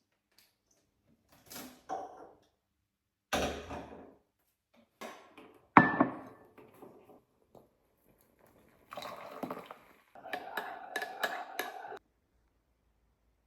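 Kitchen clatter in short separate bursts: dishes and utensils knocked and set down, with one sharp ringing clink of china or glass about six seconds in and a busier run of clinks and rustling near the end.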